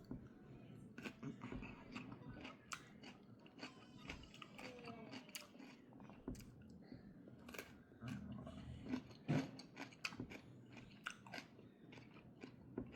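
A person chewing and biting food, with faint crisp crunches and clicks at irregular moments.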